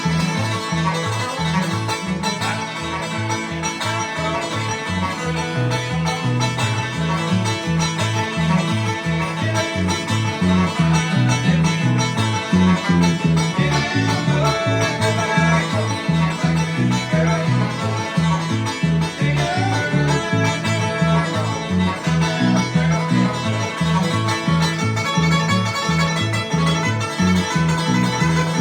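Bluegrass band playing live: rapid banjo picking over strummed guitar, with a steady alternating bass line.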